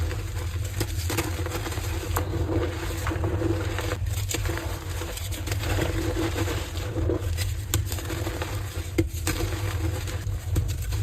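Heart-shaped blocks of dyed gym chalk being crushed and crumbled, a dense, continuous run of soft crunching and crackling over a steady low hum.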